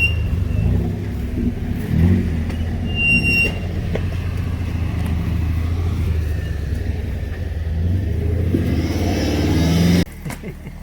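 Off-road vehicle engine running steadily, with a brief high squeak about three seconds in and a rise in revs near the end. The sound drops suddenly just before the end.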